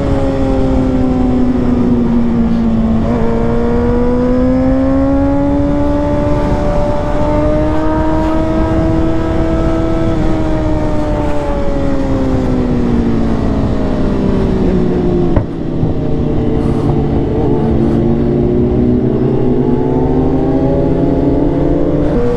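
Sportbike engine under way, its pitch sinking, then climbing and holding, easing off again, with a brief break about two-thirds through, like a gear change, before it climbs once more. Steady wind rush over the rider's microphone underneath.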